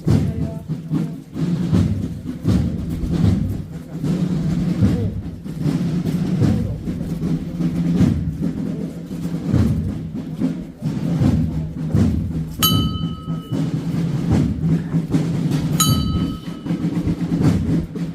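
Procession band music: drums beating under sustained low notes. A short, high ringing note sounds twice near the end.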